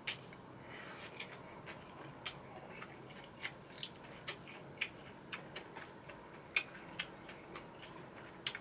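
Close-miked chewing of spicy chewy noodles (jjolmyeon): irregular soft, wet mouth clicks and smacks.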